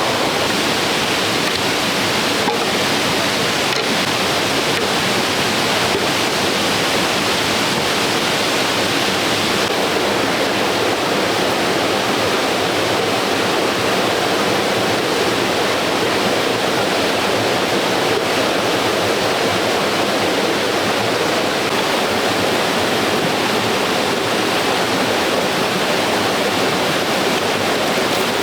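Steady, even rush of water with no break or change.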